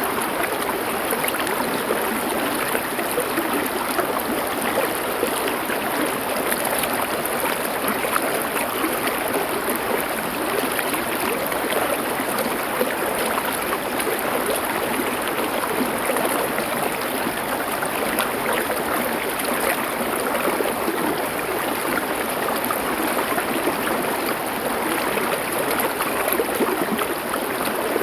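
Stream water flowing and gurgling over stones, a steady, even rush.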